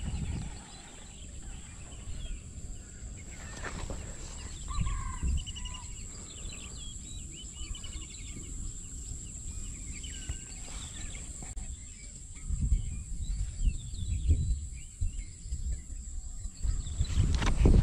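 Outdoor ambience of small birds chirping in short calls, over a steady high-pitched whine, with low rumbles on the microphone growing louder in the second half.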